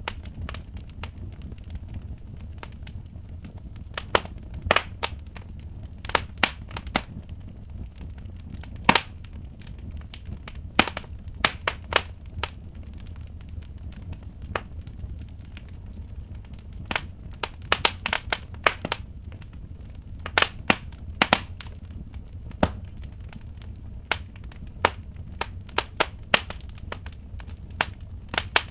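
Wood fire in a fireplace crackling, with irregular sharp pops, some in quick clusters, over a low steady rumble.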